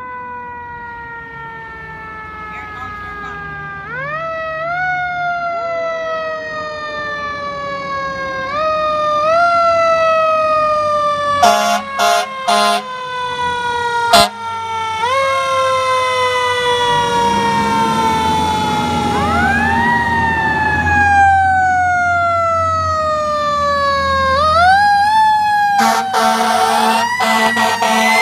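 Fire truck siren wailing, each cycle rising quickly and then falling slowly, growing louder as the truck approaches. A few short horn blasts cut in about halfway and again near the end, with a low engine rumble as it passes.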